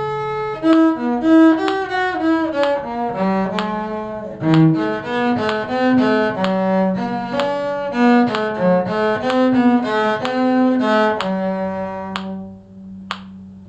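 Bowed string instruments (violin, viola and cello) playing a tune together in short, separate notes. The music ends about eleven seconds in on a long held low note that fades away, followed by a couple of faint clicks.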